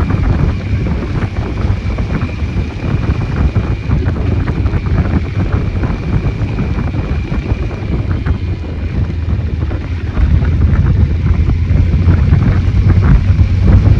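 Wind buffeting the microphone on a moving motorcycle, with the Cyclone RX401's engine droning low underneath; it gets louder about ten seconds in.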